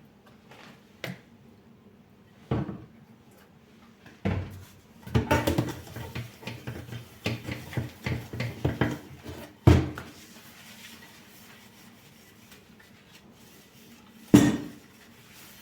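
Kitchen clatter of dishes and utensils being handled, with a string of clinks and knocks from about five to nine seconds in and a louder single knock near the end.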